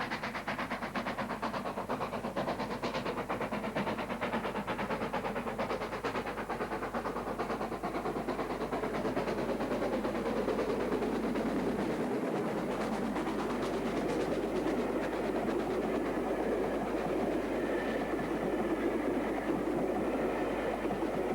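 Great Central 'Improved Director' 4-4-0 steam locomotive (LNER class D11) working a train, with a rapid, even beat of exhaust and wheels on rail that grows louder about halfway through as it draws nearer.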